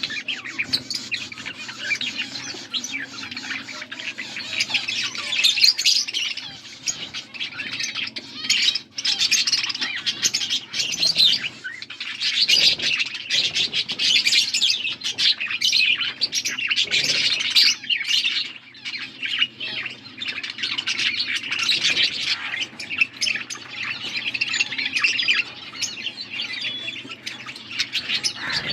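Pet budgies (budgerigars) chirping and chattering without a break, a dense mix of quick high chirps and squawks, with a low steady hum under it.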